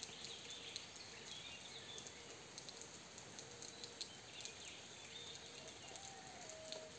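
Light rain falling, with scattered drips ticking, while small birds chirp faintly over it. A brief held call comes in near the end.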